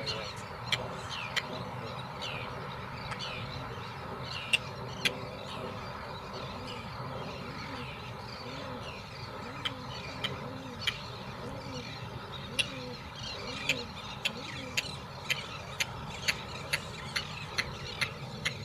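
Birds calling with many short falling chirps and, in the middle, low repeated hooting notes. Sharp clacks are scattered at first and become a steady run of about two a second in the second half.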